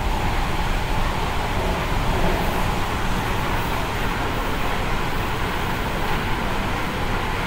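An MTR Tung Chung line K-train running between stations, heard from inside the passenger car: a steady, even rumble and rush of wheels on rails with motor noise.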